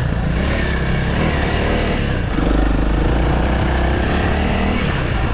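Honda CRF300L single-cylinder dirt bike engine running under load as it is ridden through a water crossing, the revs picking up a little over two seconds in.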